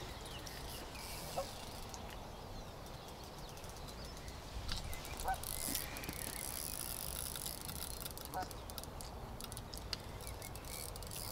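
Faint outdoor background with a few short, distant bird calls scattered through it.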